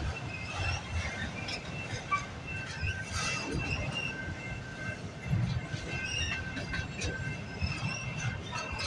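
Freight train of autorack cars rolling past: a steady low rumble of steel wheels on rail, with scattered clicks and an on-and-off high-pitched wheel squeal.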